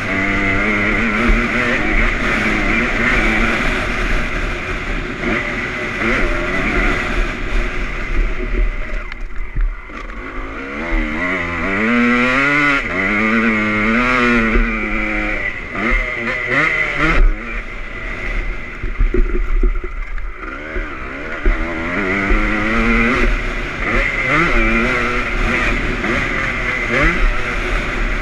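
A 2001 Honda CR250's single-cylinder two-stroke engine being ridden hard, its pitch rising and falling over and over as the throttle is opened and closed.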